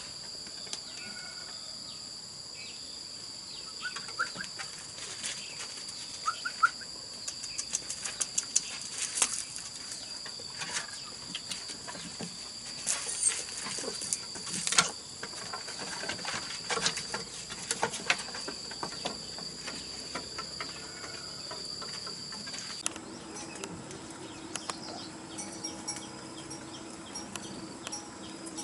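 Insects droning steadily at a high pitch, with scattered sharp clicks and knocks. About three-quarters of the way through the drone stops and a low steady hum takes over.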